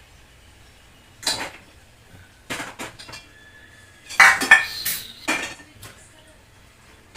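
Scattered clinks and clatters of dishes and cutlery, a few single knocks and then a louder cluster about four seconds in, with a faint ringing afterwards.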